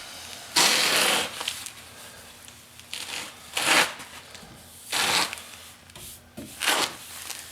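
A cloth wiped across a car's painted body panel in four separate strokes, each a short rustling hiss, to clear dust before painting.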